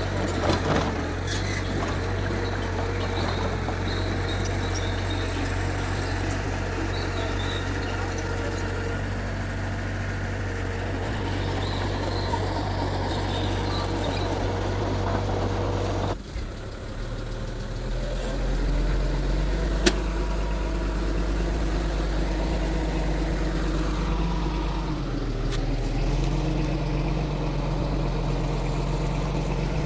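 Mitsubishi bulldozer's diesel engine running steadily. About halfway through the engine note changes abruptly to a lower, slightly louder hum, and a single sharp tick comes a few seconds after.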